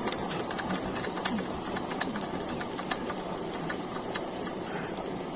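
Old Ruston 20 HP diesel oil engine running: a steady hiss with many irregular light ticks and clicks over a faint low hum.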